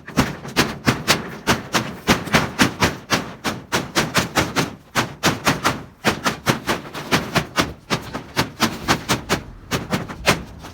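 Rapid hammering, about four sharp blows a second, pausing briefly about halfway through.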